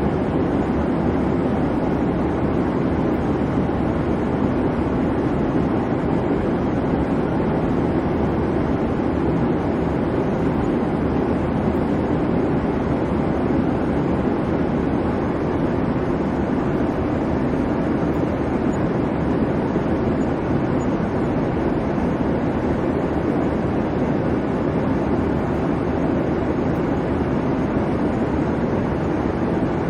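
Airliner cabin noise in flight: a steady, even rumble and hiss from the engines and the airflow, strongest low down, with no change.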